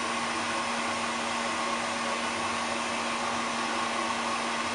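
Electric hair dryer running steadily, a rushing of air over a constant motor hum, as it dries a long-haired cat's fur.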